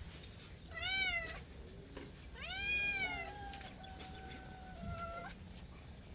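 Domestic cat meowing twice, a short meow and then a longer, drawn-out one, each rising and falling in pitch. A faint thin steady tone follows and stops abruptly about five seconds in.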